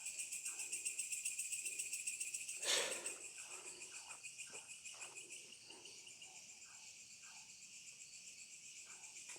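Night insects, mainly crickets, trilling in a steady pulsing chorus. About three seconds in there is one short, louder noise.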